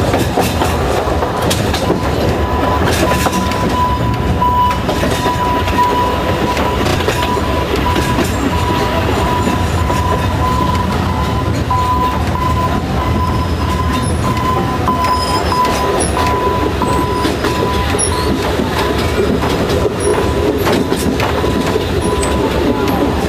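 Alishan Forest Railway narrow-gauge train running on the rails, a steady rumble with the clickety-clack of wheels over rail joints. A steady high-pitched tone rises over it about a second and a half in and fades out a few seconds before the end.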